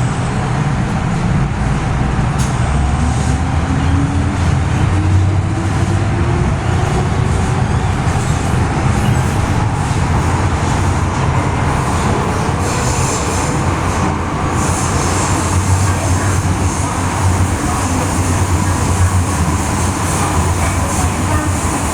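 MTR Tsuen Wan Line M-Train running: a steady, loud rumble and hiss of the train on the track, with a faint whine that rises in pitch over the first several seconds.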